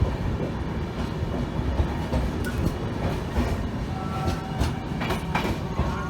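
Indian Railways passenger train running along the track: a steady rumble with the wheels clicking over rail joints. A faint high whine joins in near the end.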